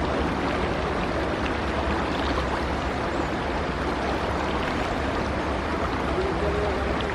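Sea truck ferry under way: a steady low engine rumble beneath the continuous rush of water.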